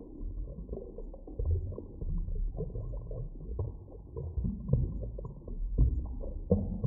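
Deep underwater ambience: a steady low rumble with irregular soft knocks and pulses.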